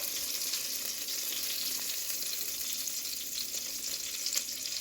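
Chicken tenderloins sizzling in a frying pan: a steady crackling hiss with one sharp tick near the end.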